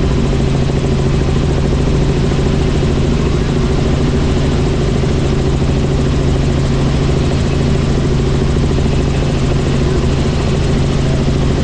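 Helicopter in flight: the steady, loud drone of rotor and engine, with a constant low hum.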